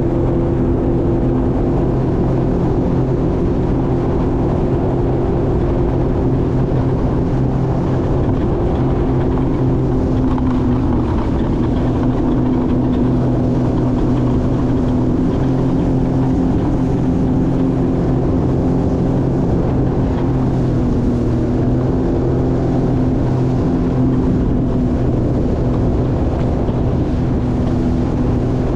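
Jet ski engine running steadily, with water and wind noise; its pitch shifts slightly about eleven seconds in.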